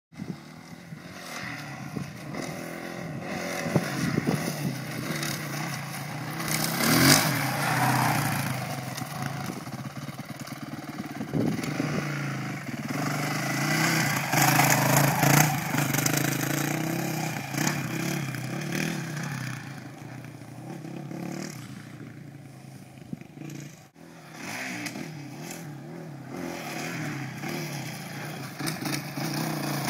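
Dirt bike engine running and revving, its level rising and falling as the bike is ridden, with a few sharp knocks.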